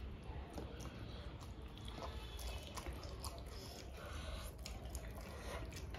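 Eating sounds: chewing with scattered small clicks.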